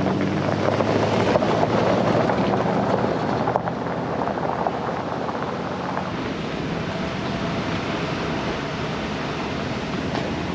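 Chevrolet Silverado 2500HD pickup driving through a mud hole: the engine runs steadily while muddy water splashes and sloshes under the tyres, the splashing heavier in the first few seconds.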